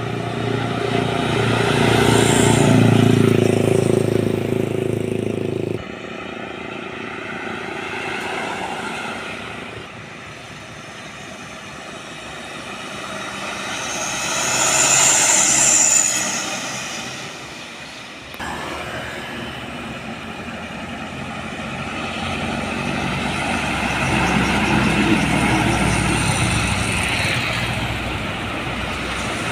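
Heavy diesel trucks driving past on a road, one after another, each engine getting louder as it comes near and fading as it goes. The sound changes abruptly twice, about 6 and 18 seconds in, where clips are joined.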